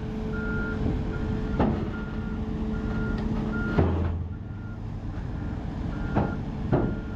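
Kobelco SK210 excavator's travel alarm beeping steadily, about once every three-quarters of a second, over its running engine as it tracks onto a trailer. Several sharp clanks sound through it, the loudest near the middle.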